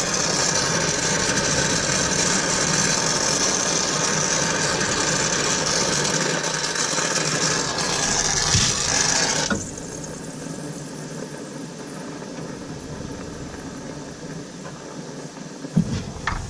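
Torch flame burning with a steady loud hiss while a copper refrigerant line is soldered, shut off about nine and a half seconds in. A quieter steady noise remains after it, and a single knock comes near the end.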